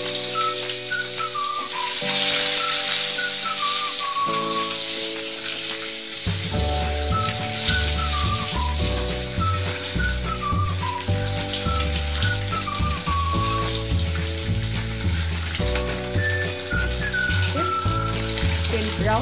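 Hard-boiled eggs sizzling as they fry in hot oil in a pan. Background music plays over it: a melody throughout, with a pulsing bass line coming in about six seconds in.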